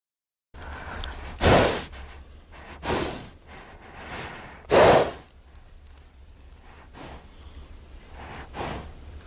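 A horse snorting, blowing air hard through its nostrils in four sharp, noisy bursts, the loudest about a second and a half in and near five seconds, with softer breathing between.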